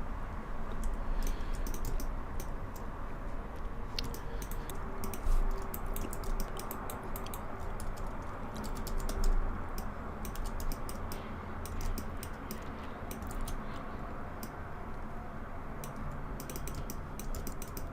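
Computer keyboard keys and mouse buttons clicking irregularly in scattered taps, with a quick cluster near the end, over a steady low hum.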